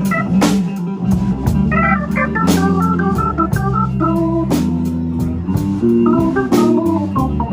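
Live blues band playing an instrumental passage: an organ line of sustained stepped notes over bass and drums, with regular cymbal and snare hits.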